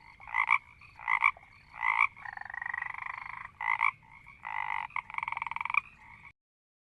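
A frog calling: several short croaks, then longer calls made of rapid pulses, like a trill.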